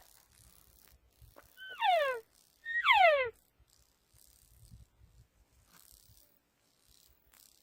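Two elk cow-call mews about a second apart: short, nasal, steeply falling squeals.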